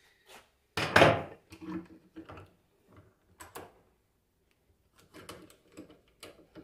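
Metal knocks and clinks as parts of a homemade bearing puller are fitted onto an alternator bearing: one loud knock about a second in, then a string of lighter taps and clicks.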